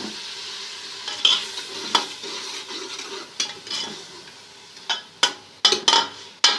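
Onion paste frying in hot ghee in a cooking pot, a steady sizzle that slowly fades, while a spoon stirs and scrapes against the pot in short strokes, more often near the end.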